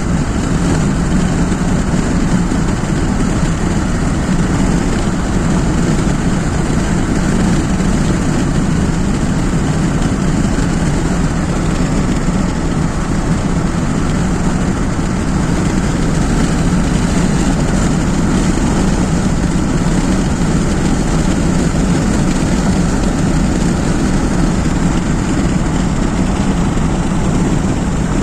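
Steady road and engine noise of a car driving along a highway.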